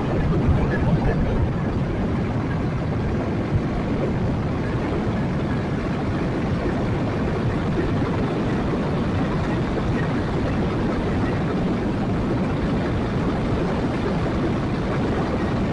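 Yamaha Jupiter MX 135 underbone motorcycle cruising at a steady speed, its single-cylinder engine running under wind rushing over the rider's microphone.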